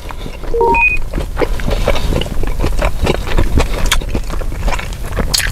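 Close-up wet chewing and mouth smacking while eating a grilled cheese sandwich dunked in tomato soup: a run of irregular, quick clicks and squelches.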